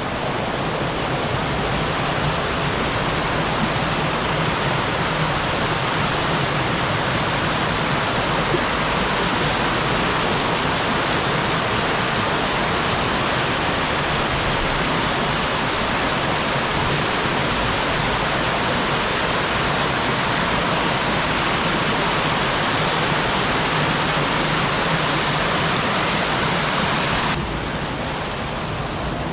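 Steady rush of running water. Near the end the hiss in the upper range cuts off abruptly, leaving a duller, lower rush.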